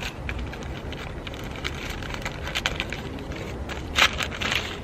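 Small plastic clicks and rattles of a phone holder being handled and fitted onto a car air-vent clip, with a louder quick run of clicks about four seconds in. A steady low rumble lies underneath.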